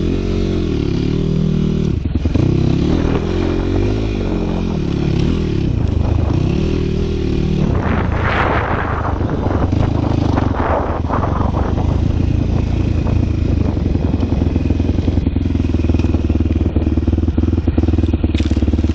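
A small vehicle's engine running under a rider, revving up and down several times. About eight seconds in, a few seconds of loud rushing, scraping noise cover it, and then it settles into steady running.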